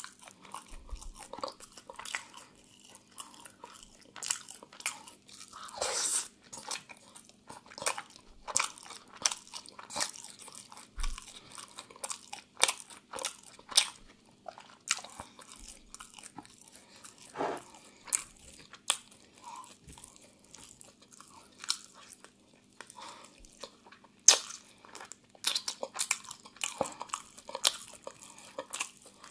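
Close-up chewing and crunching of crispy grilled chicken, with many short sharp clicks coming irregularly throughout.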